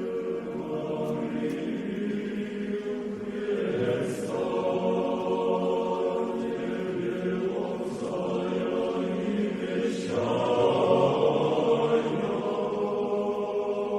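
Choir singing Orthodox church chant in long held chords, moving to a new chord every few seconds.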